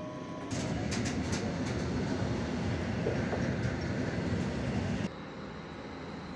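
Train moving through a station, its wheels clicking and clattering over the rail joints with steady rolling noise; the sound cuts off abruptly about 5 seconds in to a quieter steady background.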